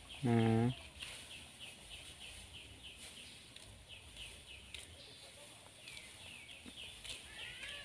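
Birds chirping faintly over and over, short high downward chirps several times a second. A brief low steady tone lasting under half a second sounds about half a second in and is the loudest thing.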